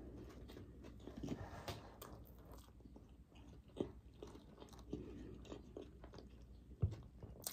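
Faint close-up chewing of a crispy fried chicken sandwich, with small crunches now and then.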